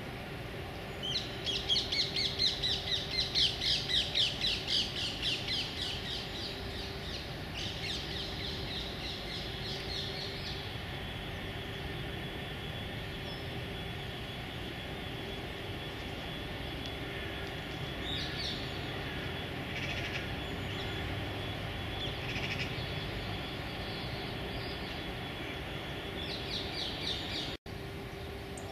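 A bird calling in fast rattling runs of short high notes: a loud run lasting several seconds near the start, a second soon after, and shorter, fainter runs later. A faint steady low hum lies underneath.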